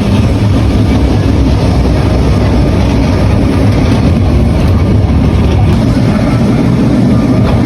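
Steady, loud low rumble of a Lisbon number 28 tram running along the street, heard from on board.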